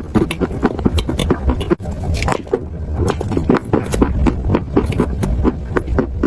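Close-miked crunching of chalk being bitten and chewed: a rapid, irregular run of crisp crunches and crackles.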